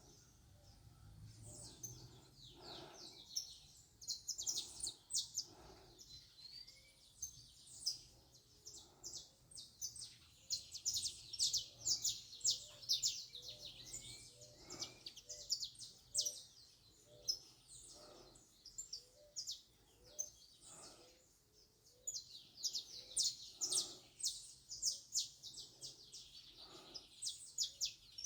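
Small birds chirping, many quick high chirps in clusters, busiest from about a third of the way in and again near the end.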